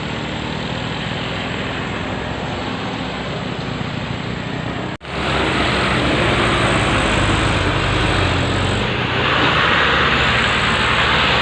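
A diesel dump truck's engine running with heavy road noise. The sound cuts out for an instant about five seconds in, then comes back louder and grows stronger again near the end.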